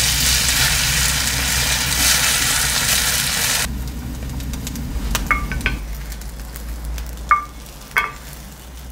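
Beaten egg and crab sticks sizzling in a hot cast iron skillet while being stirred with wooden chopsticks. The sizzle cuts off suddenly about halfway through. After that come a few light clinks, each with a short ring, as the skillet tips against a ceramic bowl to slide the egg onto rice.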